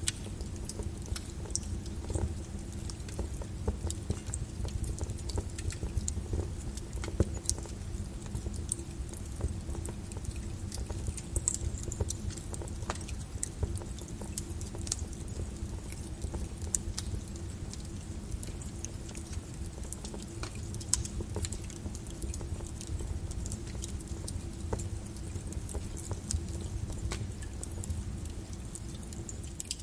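Rain with a crackling wood fire: a steady hiss and low rumble dotted with frequent sharp pops and snaps.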